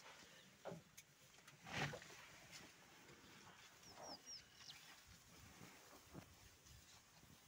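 Quiet open-savanna ambience with faint scattered rustles, a soft breathy whoosh about two seconds in, and a quick run of three high bird chirps about four seconds in.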